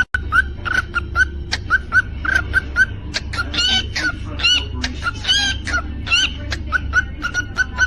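Cockatiel chirping in a quick, steady string of short notes, about four a second, with louder warbling whistled calls through the middle.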